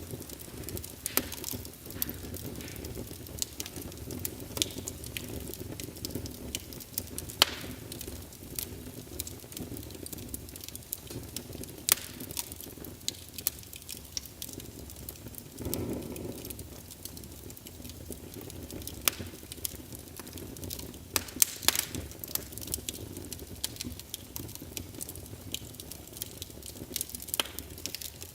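Fire burning in a fireplace, crackling with sharp pops at irregular intervals over a low, steady flame rumble. There is a brief swell of flame noise about halfway through.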